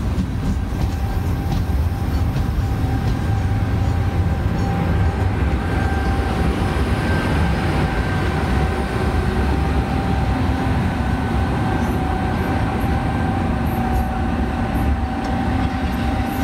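A train running in the station: a steady low rumble with a held whine above it that grows stronger through the middle.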